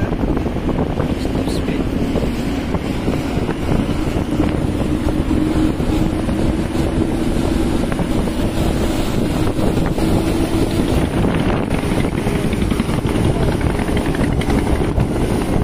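Twin Yamaha 200 hp two-stroke outboard motors running a speedboat at speed, a steady engine note that edges up slightly in the middle. Heavy wind rushes over the microphone throughout.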